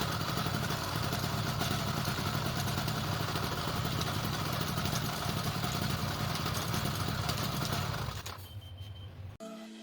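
Motorized bicycle's small engine running steadily, dropping away about eight seconds in.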